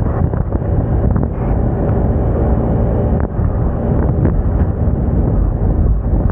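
Moda Moca 110 scooter's small single-cylinder engine running steadily while riding, with heavy wind noise buffeting the microphone.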